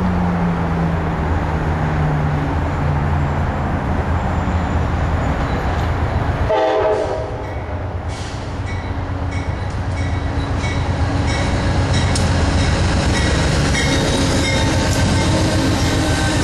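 Amtrak electric locomotive-hauled train approaching, sounding one short horn blast about six and a half seconds in, then its coaches rumbling past with a regular clickety-clack of wheels over rail joints.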